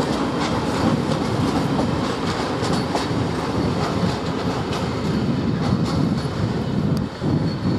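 Train running along the track with a steady rumble and the wheels clicking over rail joints.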